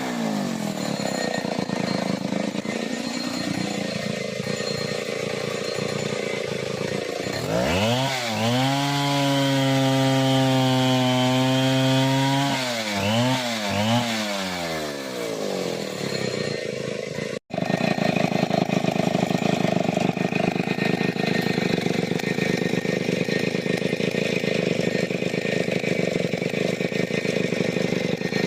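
Two-stroke chainsaw, a Stihl 070, working timber. Its revs fall away at the start, then it runs at full throttle at a steady high pitch, with a few quick throttle blips. After an abrupt cut out, an engine runs steadily at an even, lower pitch.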